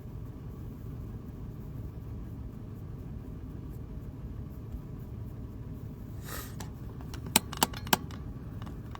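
Steady low hum of a car idling, heard from inside the cabin. A short hiss comes about six seconds in, then three sharp clicks in under a second.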